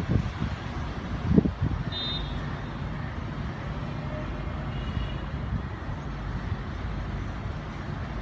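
Road traffic: vehicle engines running in a steady low rumble, with a couple of knocks early on and a brief high tone about two seconds in and again near five seconds.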